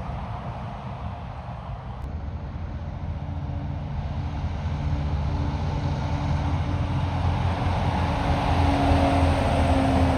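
A heavy truck's engine and tyres on the road, growing steadily louder as it approaches, with a steady low engine note.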